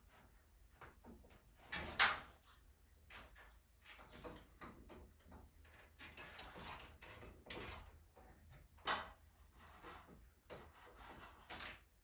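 Irregular knocks and clatters from hands and tools working on garage door torsion spring hardware, the loudest a sharp knock about two seconds in, with others about nine seconds in and near the end.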